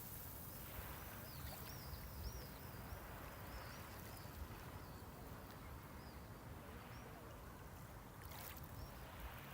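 Gentle sea waves washing on the shore in a soft, steady hush, with one slightly louder wash near the end. Small birds chirp in short high calls during the first few seconds and again near the end.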